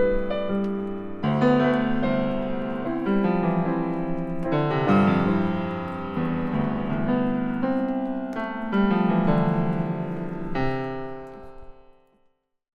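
Solo piano music: a slow piece of sustained chords that die away near the end.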